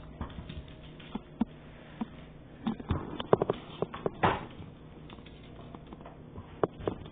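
A dog moving about: irregular light clicks and taps, with a quick run of them about three to four seconds in and a few more near the end.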